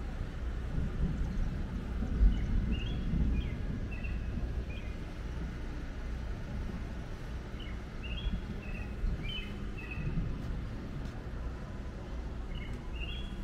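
A songbird singing three phrases of quick, short chirping notes, a few seconds apart, over a steady low outdoor rumble.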